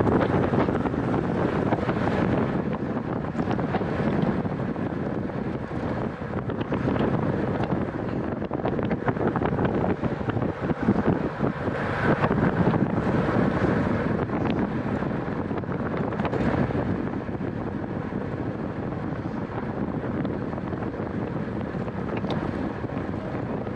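Wind rushing over the microphone of a camera riding on a racing bicycle at speed, a steady noise that swells and eases a little.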